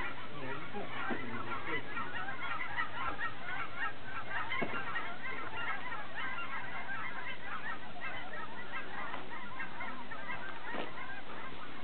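Many birds calling at once outdoors: a steady, dense chorus of short overlapping calls.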